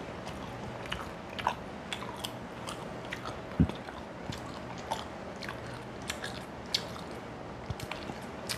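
Close-miked chewing of rice and rohu fish head, with many small crunchy clicks as fingers work the rice on a steel plate. One dull knock comes about three and a half seconds in.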